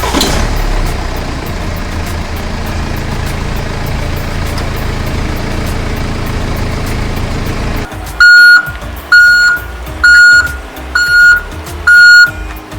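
A steady, noisy mechanical running sound, then from about eight seconds in a vehicle reversing alarm beeping at one pitch, about once a second.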